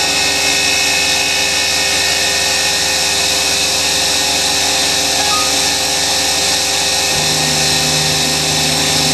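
Small CNC mini mill running its program: the spindle motor whines at a steady speed, with the axis motors driving the feed. A lower hum joins about seven seconds in.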